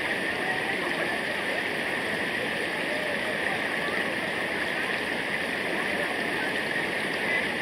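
Flowing water rushing and gurgling steadily over rocks in a stream or waterfall.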